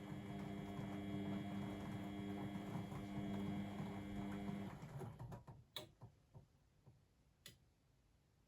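Blomberg WAF 7442 SL washing machine humming steadily, then cutting off abruptly about halfway through. A run of fading soft knocks and two sharp clicks follow.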